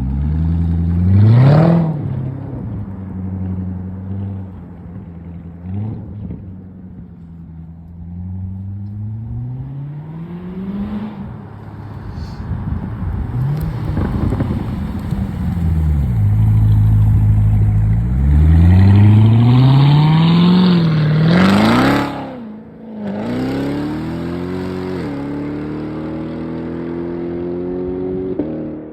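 Chevrolet Corvette C7 Z06's supercharged V8 revving repeatedly, with several short blips, then a long high rev that drops away sharply. It then pulls up again through a gear change under acceleration.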